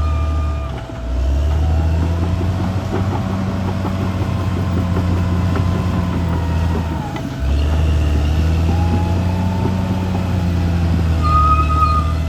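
Caterpillar D6R bulldozer's diesel engine running steadily under work, with a high whine that rises and falls above it. The sound dips briefly about a second in and again about seven seconds in.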